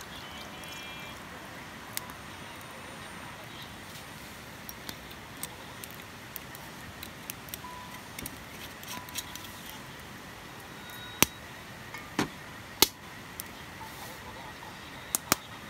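Steady rush of a flowing river, with scattered sharp clicks and knocks, the loudest coming in a cluster in the last few seconds.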